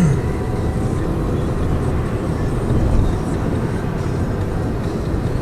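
Steady road and engine rumble inside the cabin of a Lada Vesta Cross driving along at speed, with no knocks standing out.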